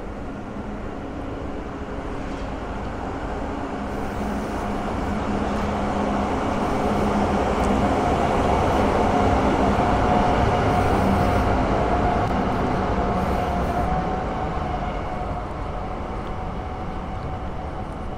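A rail vehicle passing close by: a steady rumbling noise that builds to its loudest about halfway through and then fades, with a steady whine over it while it is loudest.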